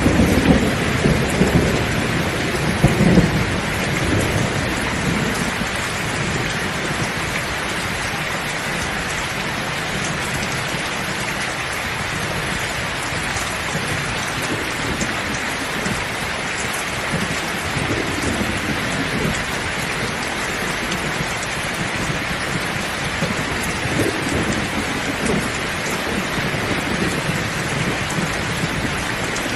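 Heavy rain pouring steadily, with low rumbles of thunder in the first few seconds and fainter ones later.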